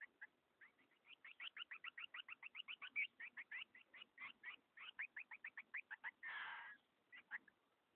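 Green-winged saltators (trinca-ferro) at the nest, giving a fast run of short chirps of about seven a second that stops about six seconds in, followed by a brief rasping burst and a few last chirps.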